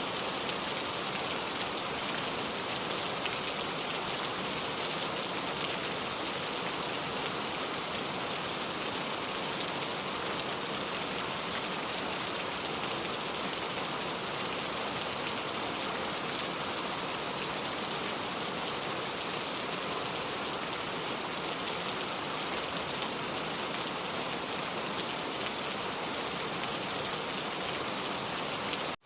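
Pouring rain falling steadily, an even hiss of heavy rainfall with no breaks.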